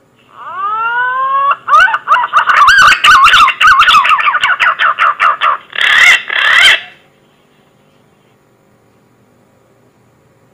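Green pigeon (punai) song played as a hunting lure call: a long rising whistle, then a fast run of wavering, warbling whistled notes with sharp clicks. It ends with two louder notes and stops about seven seconds in.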